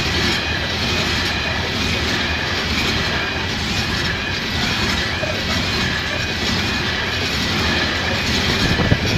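Freight train of covered coal hopper wagons rolling past close by at speed: a steady rumble of steel wheels on the rails.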